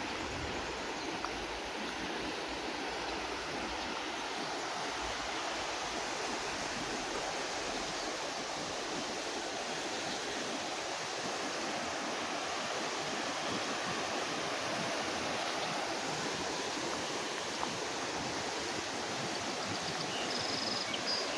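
A river running high, a steady even rush of flowing water.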